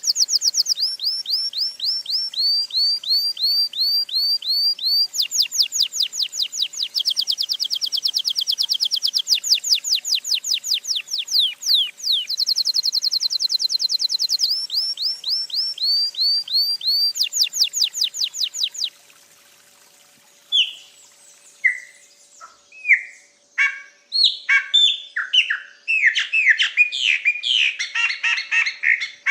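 Songbirds singing. For most of the time there are rapid runs of high, clear repeated notes in short phrases. After a brief pause near the two-thirds mark, a different-sounding song of lower, varied chirps builds toward the end.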